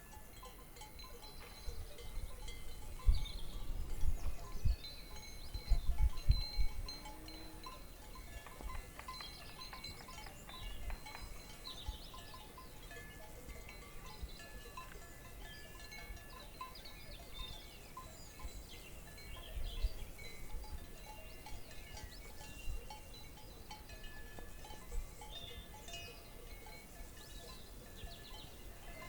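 Quiet pasture ambience around grazing cows: scattered light clinks like cowbells, with faint high chirps. A cluster of low thumps comes between about three and seven seconds in.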